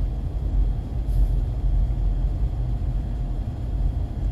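Steady low rumble of a car driving, heard from inside, with a faint steady hum and a brief hiss about a second in.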